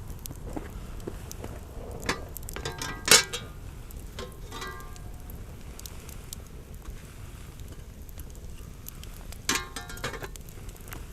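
Campfire crackling with scattered sharp pops, a loud knock about three seconds in, and a few short ringing clinks.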